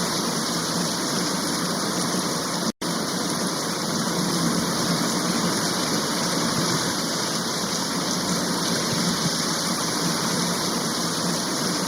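Steady rain with an even hiss, breaking off completely for a split second about three seconds in.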